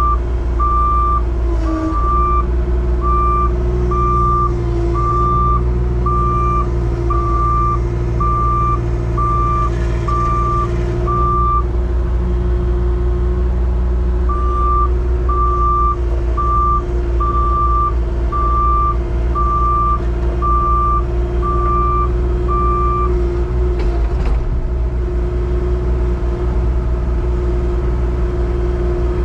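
A backup alarm beeping about once a second over an engine running steadily. The beeping stops for a few seconds near the middle, then resumes and stops again well before the end.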